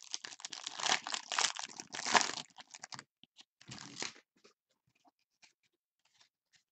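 Trading card pack wrapper crinkling and tearing as it is opened by hand: dense crackling for about three seconds, one shorter burst a second later, then a few faint ticks of cards being handled.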